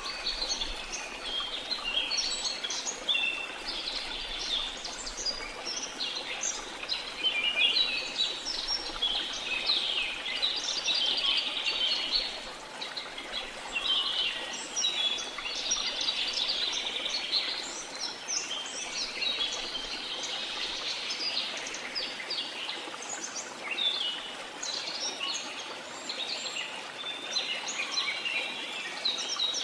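Many birds chirping, trilling and calling over one another in a dense, continuous chorus, over a faint steady rush of flowing water.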